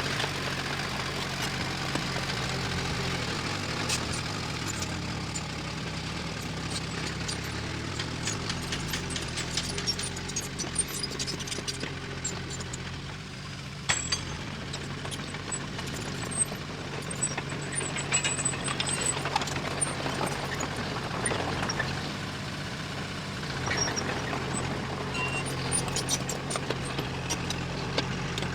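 Diesel engine of heavy earth-moving machinery running steadily, with frequent sharp clicks and clanks over it. A sharper knock comes about halfway through.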